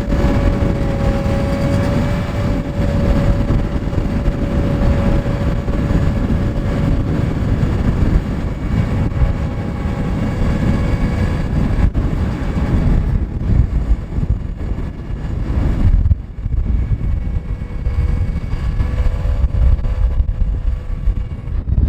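Scania R580's V8 diesel engine running, with wind buffeting the microphone. A steady whine sits over the rumble, fading after about six seconds and returning near the end.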